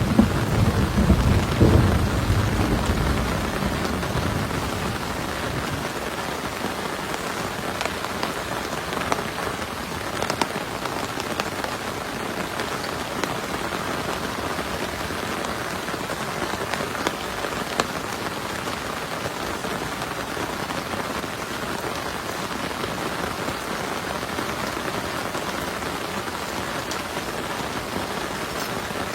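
Heavy rain falling steadily, with scattered louder drop taps. A thunder rumble dies away over the first few seconds.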